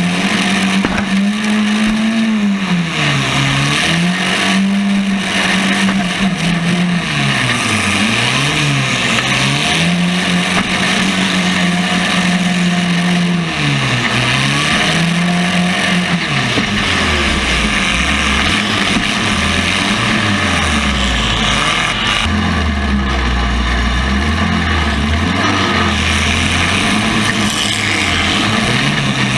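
Compact-car demolition derby engines revving, their pitch rising and falling again and again as the cars accelerate, back off and manoeuvre; from about halfway a second, deeper engine note joins in.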